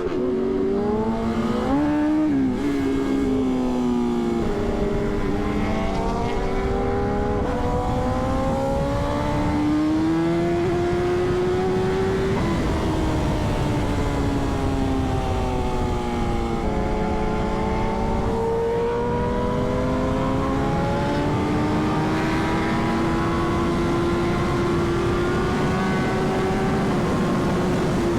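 Sport motorcycle's inline-four engine under way, its pitch rising slowly under throttle and easing off, with sudden steps in pitch at the gear changes.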